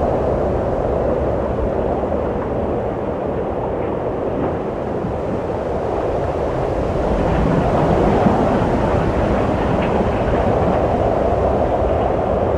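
Steady wind blowing, a low rushing with no distinct events, swelling stronger for a few seconds past the middle.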